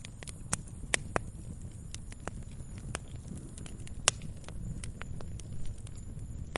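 Wood fire crackling: irregular sharp pops and snaps over a steady low rumble, with the loudest pop about four seconds in.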